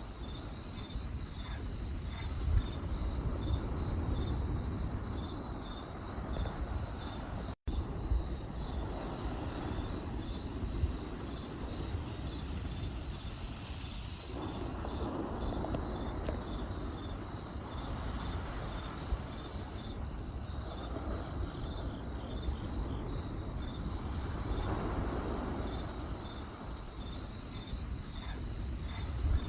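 Crickets chirping steadily in a fast pulsing trill over a campfire's low rumble and scattered crackles and pops. The sound cuts out completely for an instant about a quarter of the way in.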